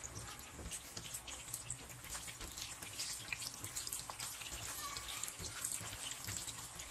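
Raw minced-meat koftas sizzling in shallow oil in a pan as they are set in one at a time, a light sizzle with many small scattered pops.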